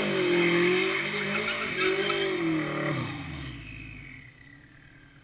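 Turbocharged Honda K24 four-cylinder in a mid-engined CRX, revved up and down repeatedly while the rear tyres squeal through donuts. The engine note fades away about three to four seconds in.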